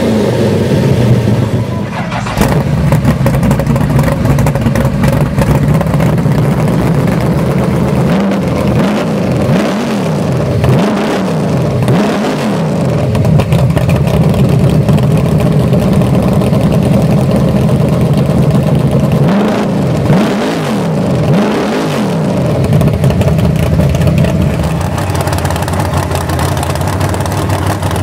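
Loud show-car engine idling, then blipped hard on the throttle in quick rising-and-falling revs: about five in a row in the middle, then three more a little later, settling back to a steady idle between.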